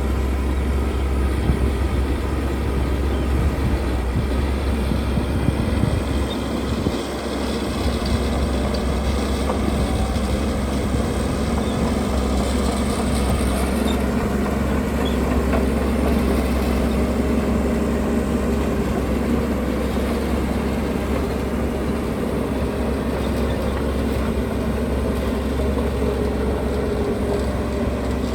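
Heavy diesel construction machinery running steadily, its engine noise strongest in the low range, with a short dip about seven seconds in.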